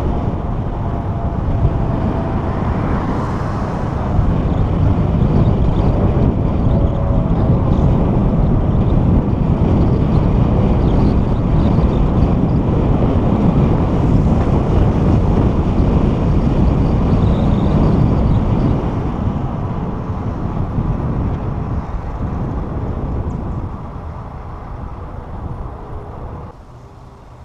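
Wind buffeting the microphone of a camera on a moving bicycle, a loud rumbling rush. It eases off about two-thirds of the way through and drops away near the end as the bike slows.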